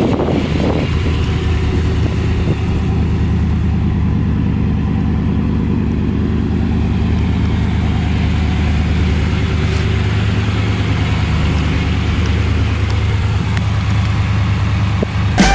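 1992 Pontiac Firebird's fuel-injected 305 V8 running at a steady, even speed, a low hum that does not rise or fall.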